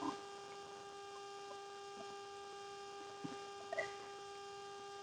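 Faint steady electrical hum, with a few soft knocks and clicks about three and a half seconds in.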